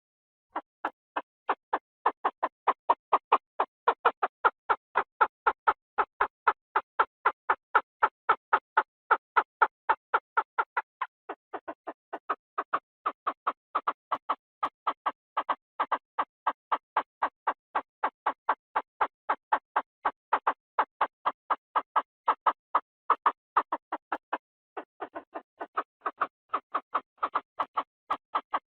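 Chinese francolin calling as a decoy playback: a long, even run of harsh notes, about three or four a second, pausing briefly twice.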